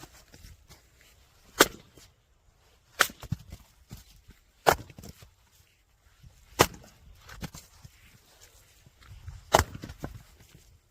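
Firewood being split: five sharp cracking strikes into wood, irregularly spaced a second and a half to three seconds apart, some followed by smaller knocks.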